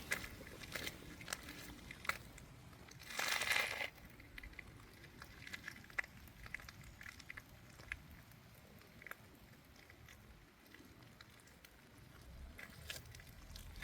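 Raindrops pattering on an umbrella, a scatter of separate light taps, with one louder rustling burst about three seconds in.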